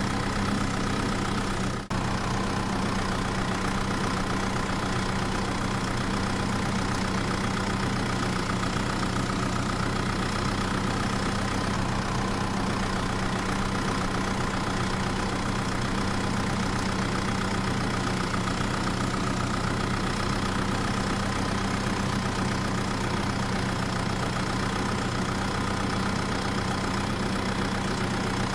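A small motor running steadily with an even hum, with a brief dip in level about two seconds in.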